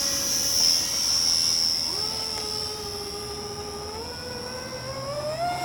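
Remote-control model airplane motors whining. A high whine fades over the first half. About two seconds in, a lower whine starts and climbs in steps as the throttle is opened, then holds steady.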